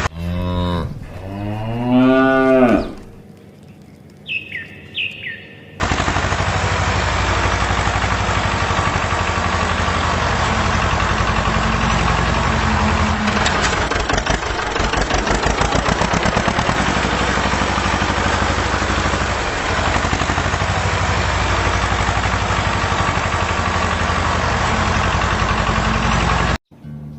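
A cow mooing once, a long call about a second in. After a short lull, a steady engine-like running sound takes over for most of the rest and cuts off suddenly just before the end.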